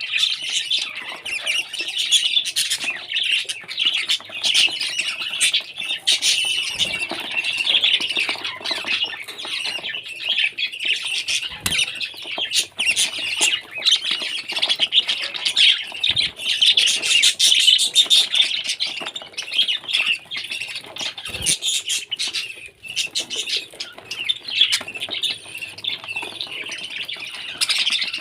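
Parrot calling nonstop, a dense stream of high calls with many sharp clicks running through it.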